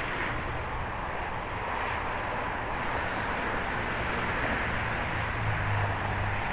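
Steady, even rumble of distant road traffic, with a low hum underneath.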